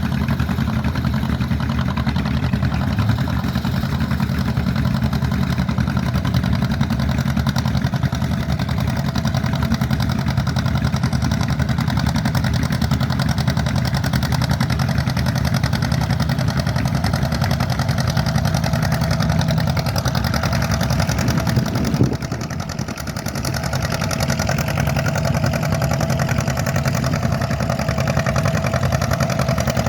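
Tractor-pull tractor's engine running loud and steady. It dips briefly about 22 seconds in, then picks up again.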